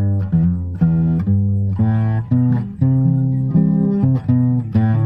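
Instrumental ending of the song: an acoustic guitar strumming chords about twice a second over a bass line, with no singing.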